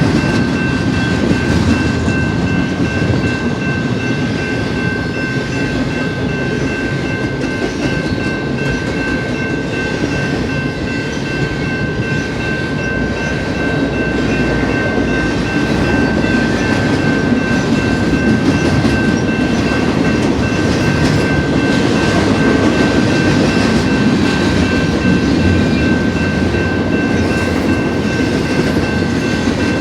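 BNSF double-stack container train rolling past at steady speed: a continuous rumble and clatter of wheels on rail, with a steady high ringing tone held throughout.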